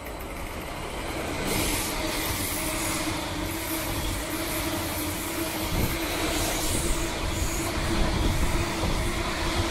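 Greater Anglia Class 745 electric train running through the station: a steady rumble of wheels on rails with a steady electric hum, building over the first couple of seconds and then holding.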